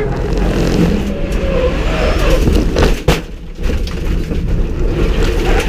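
Hyundai Excel race car running, its engine and road noise shifting in pitch, broken by one sharp bang about three seconds in, after which it goes briefly quieter.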